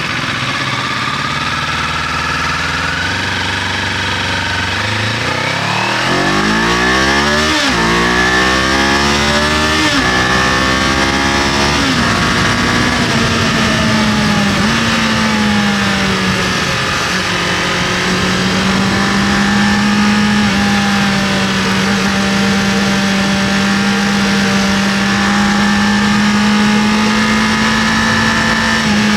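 Kawasaki KLE500 engine accelerating through the gears: the revs climb and fall back sharply at three quick upshifts. It then settles into steady cruising revs with small dips, over a constant rush of wind and road noise.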